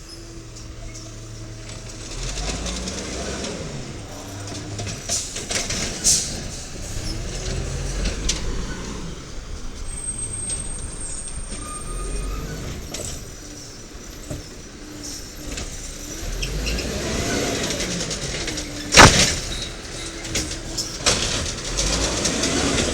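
Diesel engine of a 1993 WhiteGMC garbage truck revving up and down several times, as is typical when the engine drives the hydraulics of an Amrep automated side-loader arm. A single loud bang comes about three-quarters of the way through.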